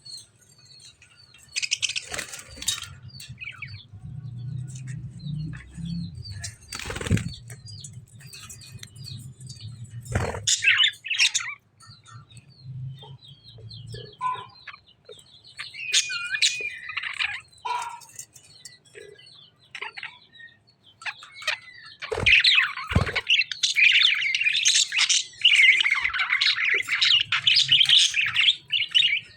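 Caged lovebirds and budgies chirping and squawking, with a few short flurries of wing flaps. A dense, loud stretch of chattering calls fills the last seven seconds.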